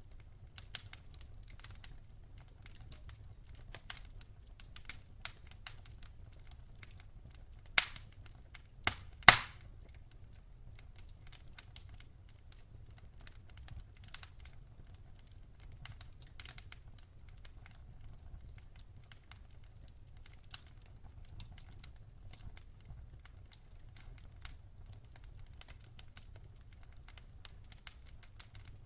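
Campfire crackling: an irregular scatter of small pops and snaps from the burning wood, with a couple of louder pops about eight and nine seconds in, over a faint low rumble.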